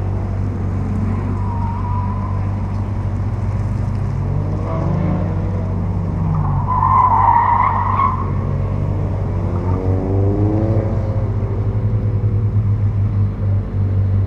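Car engine working hard through an autocross course, its pitch rising and falling with the throttle. The tyres squeal briefly about 2 s in and loudly for over a second about halfway through.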